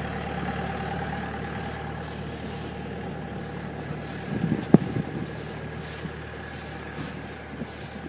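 Sidewalk snowplow's engine running steadily and slowly fading, with a brief clatter and one sharp knock about four and a half seconds in.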